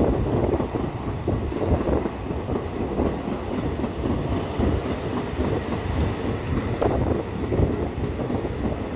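Train running along the track: a steady rumble of wheels on rail, with irregular knocks and rattles.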